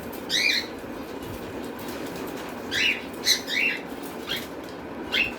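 Cockatiels chirping in short, sharp calls, one soon after the start and a quick run of several about three seconds in, over a steady low rustle.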